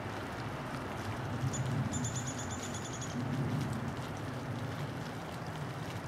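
A bird's high, rapid trill of evenly spaced notes, about ten a second, begins about a second and a half in and lasts about a second and a half. A steady low rumble runs underneath.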